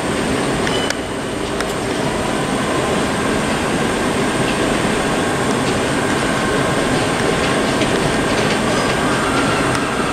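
Electric multiple-unit passenger train running past at low speed: a steady rolling noise of wheels on rail, with occasional clicks and a faint high wheel squeal.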